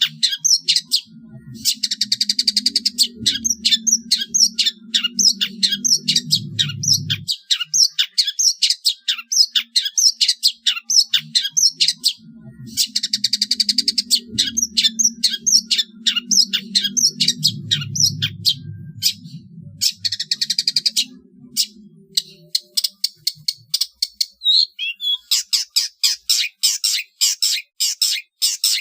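Long-tailed shrike (cendet) singing a fast, loud run of sharp high chips, broken about four times by dense buzzy chattering passages of a second or two. A low hum runs underneath for two long stretches.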